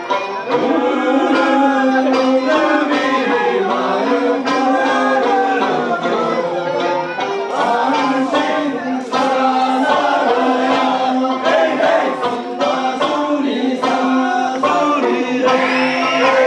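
Okinawan eisa music: a folk song sung by several voices holding long notes, with scattered drum strikes.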